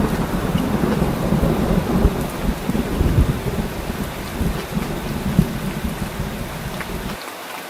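Heavy rain falling steadily under a long, slowly fading rumble of thunder. The low rumble cuts off suddenly near the end, leaving the rain alone.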